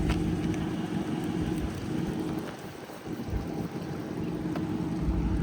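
Dodge Charger R/T's 5.7-litre Hemi V8 idling steadily, its low rumble dipping briefly about halfway through.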